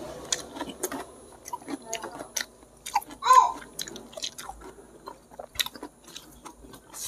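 Close-miked chewing and biting of goat head curry eaten by hand, with many short wet mouth clicks and smacks. There is one louder, brief mouth sound about three seconds in.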